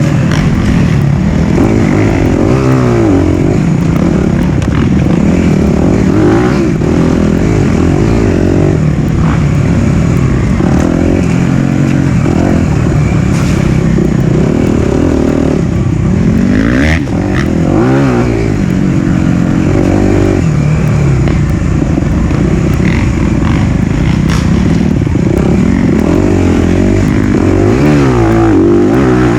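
Four-stroke single-cylinder dirt bike engine being ridden on a trail, revving up and dropping back over and over as the rider works the throttle and gears.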